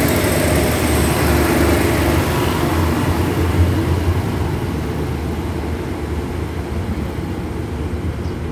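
Diesel passenger train pulling away along the platform: a low engine rumble and wheel-on-rail noise. It is loudest while the last coach passes in the first few seconds, with a single knock about three and a half seconds in, then fades steadily as the train draws off.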